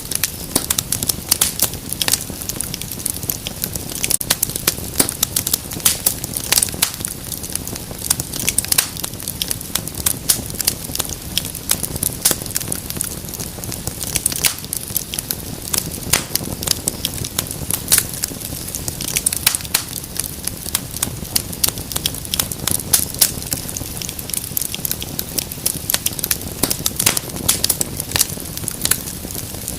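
Wood fire crackling: a dense, irregular stream of sharp pops and snaps over a steady low rumble of flames.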